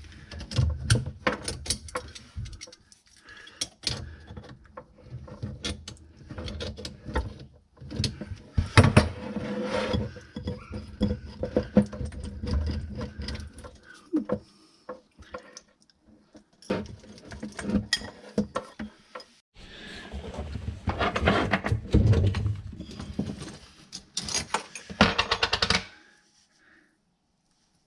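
Hand tools and plumbing fittings being handled, with irregular metallic clicks, knocks and rattles plus rustling, in bursts with short pauses. It stops about two seconds before the end.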